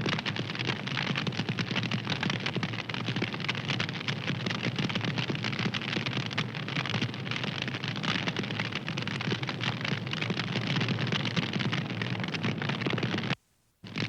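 Wood fire crackling, with dense small pops and snaps over a steady rushing hiss. Near the end the sound cuts out completely for under half a second, then resumes.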